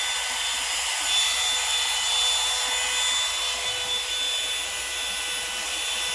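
Revlon One-Step Volumizer hot-air brush dryer running steadily on its cool setting: a constant rush of air with a thin motor whine.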